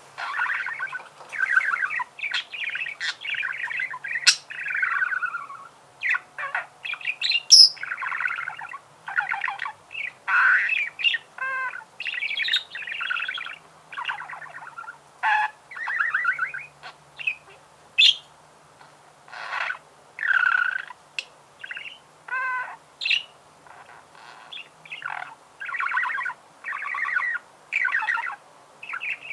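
Budgerigar warbling, a steady run of chattering chirps and squawks with short pauses, broken now and then by sharp clicks and rising whistles.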